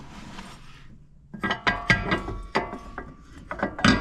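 A worn-out shock absorber with no upper mount bushing left, clunking and rattling metal on metal as it is moved. The knocks are irregular and ringing, two to three a second, starting about a second and a half in.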